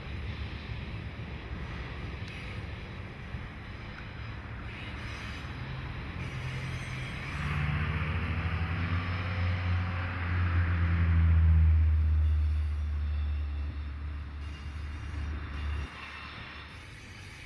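Diesel locomotives on a passing train: a low engine drone grows louder with a rushing rail noise, peaks about two-thirds of the way through, then cuts off suddenly near the end.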